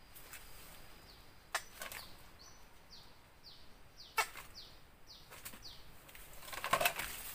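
A bird calling a run of short, high, descending notes, about two a second, which stops a little after halfway. A few sharp clicks are heard, and rustling grows near the end.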